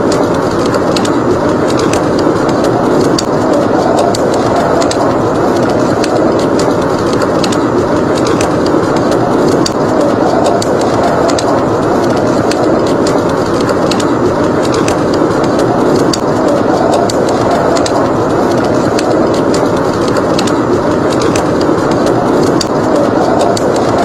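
Steady rushing blizzard wind over a wood fire crackling, with frequent small sharp pops.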